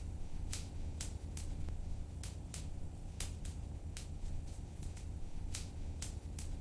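Wood fire crackling in a fireplace: sharp, irregular pops and snaps, a few every second, over a low steady rumble of the flames.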